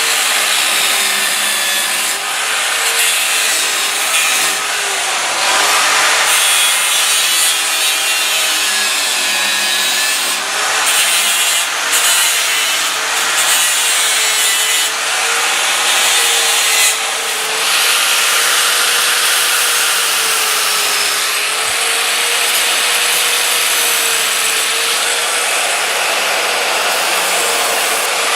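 Power grinder cutting grooves into stainless steel: a harsh, continuous hiss of abrasive on metal over a motor whine that wavers slightly in pitch.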